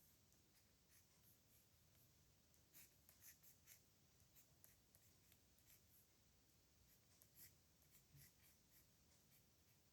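Pen nib scratching faintly across paper in short strokes while writing calligraphy, busiest about three seconds in and again around seven to eight seconds.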